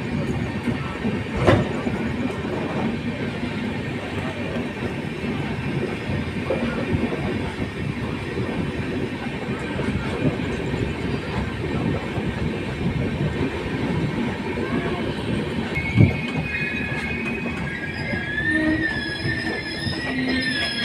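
Intercity Express passenger train rumbling into a station as it slows to stop. There are two sharp knocks, one a second or so in and one about three quarters through. A high, wavering squeal from the wheels sets in over the last few seconds.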